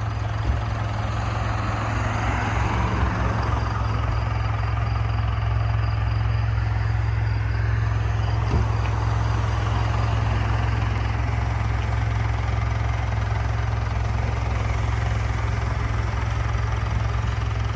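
Motor vehicle engine running steadily: a constant low hum under an even wash of road and wind noise.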